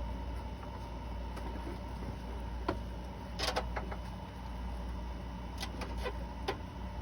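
A few light clicks and taps of small metal engine parts being handled during valve-train assembly, a cluster about halfway through and a few more near the end, over a steady low hum.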